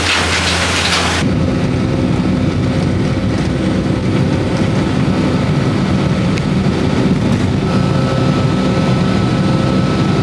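Steady low engine drone heard from inside an airliner cabin, with a faint steady high tone joining about eight seconds in. The first second is a brief stretch of loud hiss before an abrupt cut.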